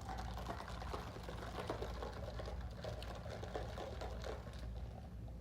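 Close-miked eating sounds: wet chewing of fast food with many small crackles and clicks, which fade out near the end, over a steady low hum.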